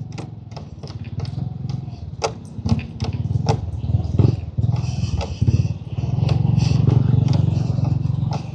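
Motorcycle engine running at low speed, with frequent sharp knocks and rattles as the bike rides over a rough, potholed road.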